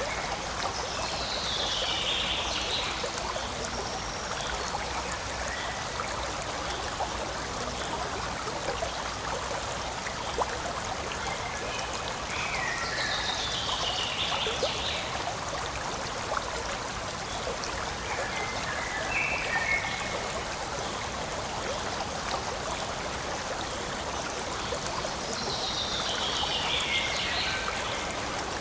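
Forest stream babbling steadily over rocks. A bird sings a short falling song about four times over it.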